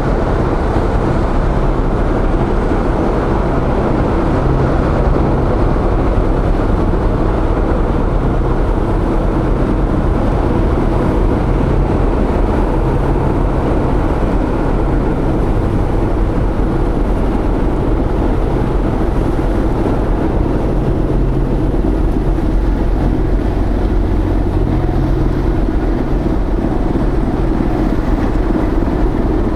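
Car ferry Daijuichi Ōsumi's engines running as she manoeuvres into port: a steady low rumble with a hum whose pitch shifts now and then, mixed with wind noise on the microphone.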